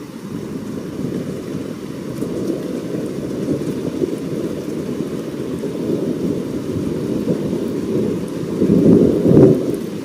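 Rolling thunder rumbling continuously, swelling to its loudest about nine seconds in.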